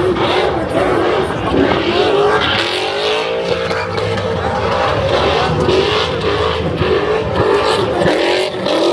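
Car engine revving hard, its pitch rising and falling over and over, about once a second, during a burnout, over a constant rushing noise.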